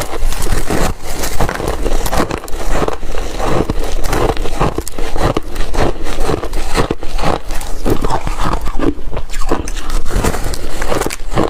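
Shaved ice being bitten and chewed close to the microphone: a dense, unbroken run of crunches and crackles.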